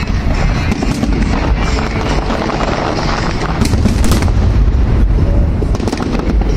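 Fireworks bursting and crackling densely, with a few sharp bangs standing out about halfway through and near the end. Music plays underneath.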